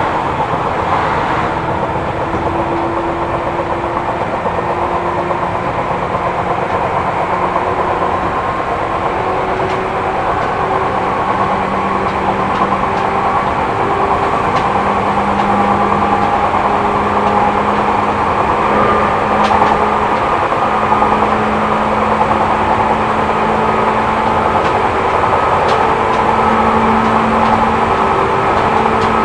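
Running noise inside a Seibu New 2000 series electric commuter train: a steady rumble of wheels on rail, with a motor whine that slowly rises in pitch over the stretch, and a few faint clicks.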